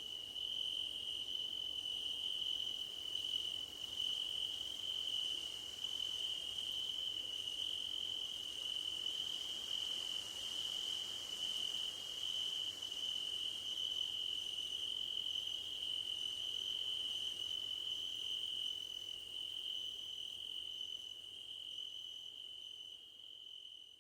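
Crickets singing in a field: one steady, high, continuous trill, with a fainter, higher call pulsing regularly above it. The chorus fades down toward the end.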